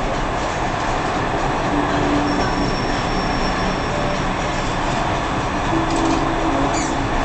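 Dubai Metro train running, heard from inside the car: a steady rumble and rush of the moving train, with low hums coming and going and a thin high whine for a couple of seconds in the middle.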